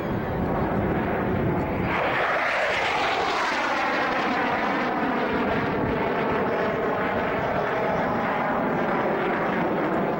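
An airplane flying past: its engine noise swells sharply about two seconds in, then drops steadily in pitch as it passes and moves away.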